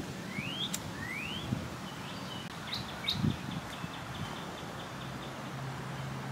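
Outdoor birdsong: a bird gives two rising whistled calls in the first second and a half, then a few short high chirps. A low steady hum comes in near the end.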